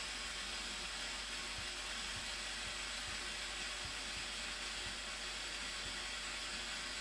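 Steady rushing noise of a waterfall, an even hiss with no change.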